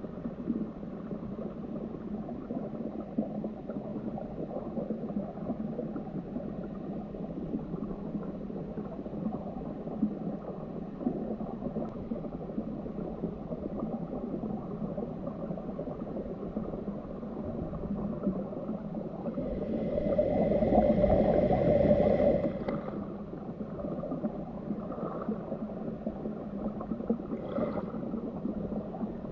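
Stream water gurgling steadily, muffled, with little above the low and middle range. About two-thirds of the way in, a louder humming tone with overtones rises over it for about three seconds and then fades.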